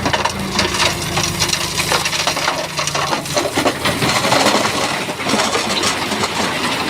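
Shantui bulldozer pushing big stones, the rocks clattering and grinding against each other in a dense run of knocks. The dozer's engine runs underneath at a steady low note that fades after about three seconds, leaving mostly the rattle of stone.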